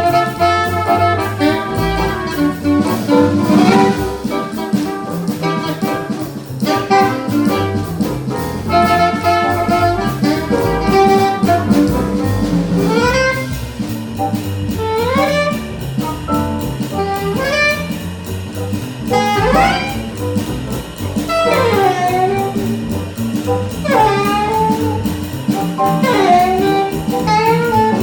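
Live small-group jazz with alto saxophone and trumpet over a rhythm section. About halfway through, the lead line turns into a run of repeated upward-swooping phrases.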